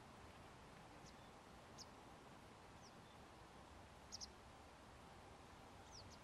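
Near silence with a faint steady hiss, broken by short, thin, high-pitched calls of a small bird, about one a second, with a quick double call about four seconds in.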